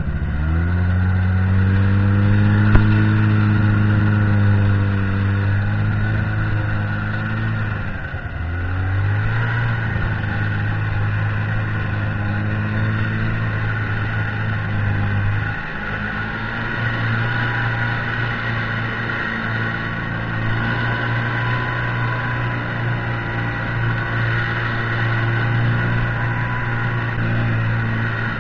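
Buran snowmobile's two-stroke engine running while riding. It revs up just after the start, drops off and picks up again around eight seconds, and changes pitch around fifteen seconds, then runs steadily. There is a single short knock near the start.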